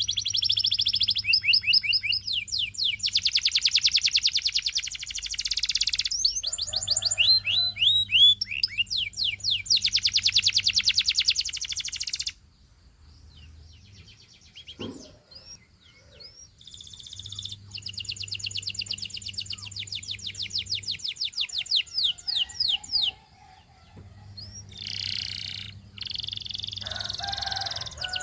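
Canary singing long rolling phrases of very fast trills and quick downward-slurred notes. The song breaks off about twelve seconds in and resumes after a pause of about four seconds.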